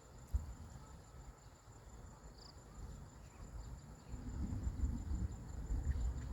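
Crickets or other insects trilling steadily in a high, even pitch. Under them are low thuds and rumble, which grow louder over the last couple of seconds.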